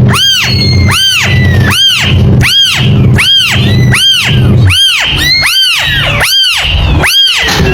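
Kitten mewing over and over, about one high meow every three-quarters of a second, each rising then falling in pitch, over a steady low hum.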